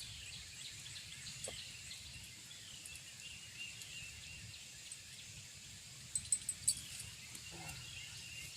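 Faint night-time insect chorus: a steady high trill with thin chirps over a low hum, and a quick cluster of sharp clicks about six seconds in.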